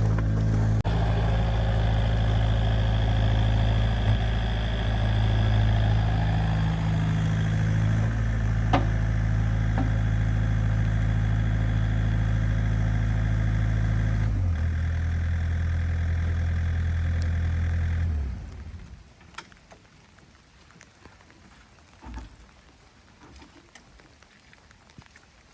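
Small engine running steadily, shifting its speed in a few steps, then shut off about 18 seconds in. Faint knocks follow.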